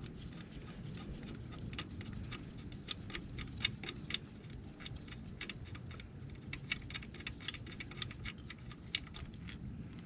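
Hand ratchet clicking in quick, uneven runs of strokes as the second 12mm mounting bolt of a 2007 Honda Accord's power steering pump is unscrewed.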